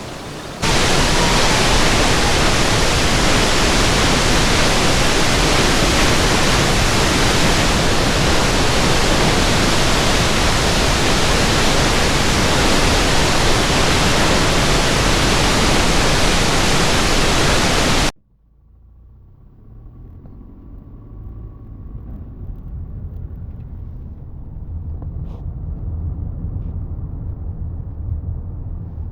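The Krimml Waterfalls: a loud, steady rush of falling water that cuts off suddenly about eighteen seconds in. Then a car driving, a much quieter low rumble that slowly grows louder.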